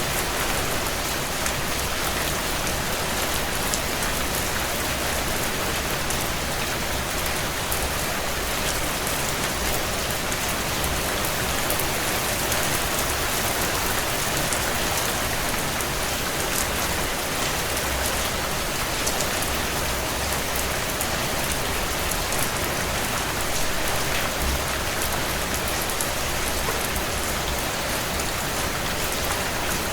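Heavy rain falling on a tin roof: a steady, dense hiss dotted with sharp taps of single drops.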